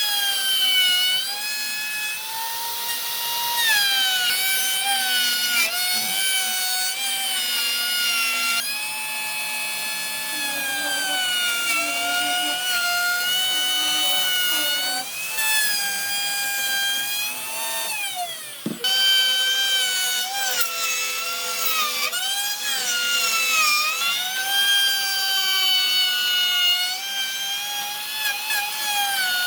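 Electric power tool working wood: a high-pitched motor whine that sags in pitch and recovers again and again as the tool is pressed into the wood. About two-thirds of the way through it slows sharply, then picks back up.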